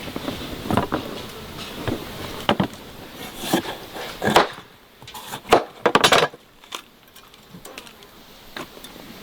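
Irregular knocks and clatters, a few a second at most, with the loudest ones bunched together about five to six seconds in.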